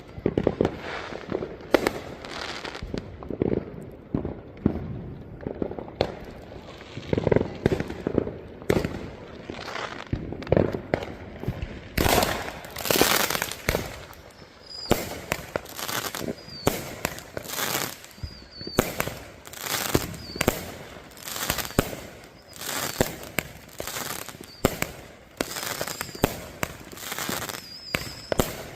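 Fireworks going off in rapid succession: many sharp bangs with crackling, and from about halfway on a few short high whistles among the bursts.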